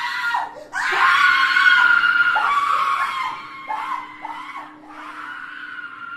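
A person screaming: short cries, then one long high-pitched scream from about a second in that slowly fades toward the end.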